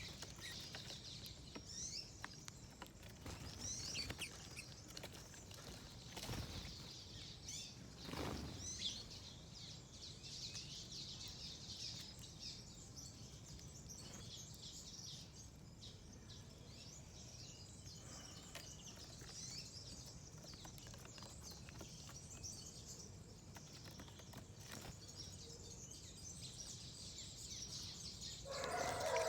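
Small garden songbirds chirping and twittering continuously. There are two brief rustling whooshes, like wingbeats, about six and eight seconds in. A louder, lower-pitched animal call starts just at the very end.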